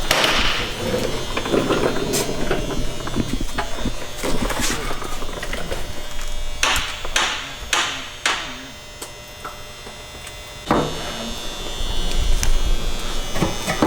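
Workshop sounds of a small power tool buzzing, with four short hissing bursts about halfway through.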